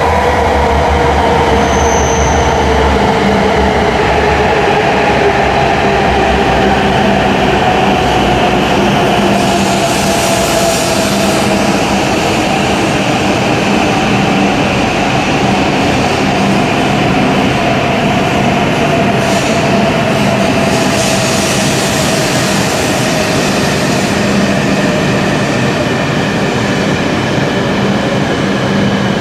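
E7-series Shinkansen train at the platform, its motor whine falling slowly in pitch over steady running noise, as a train does when braking to a stop. There are two short hisses about ten and twenty seconds in.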